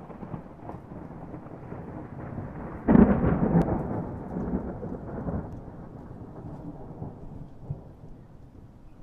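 Thunder over steady rain: a low rumble that breaks into a loud clap about three seconds in, then rolls and fades over the following seconds.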